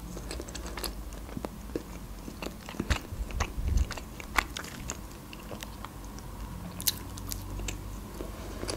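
Close-miked chewing of khachapuri, the Georgian cheese bread: irregular crunches of baked crust and small mouth clicks.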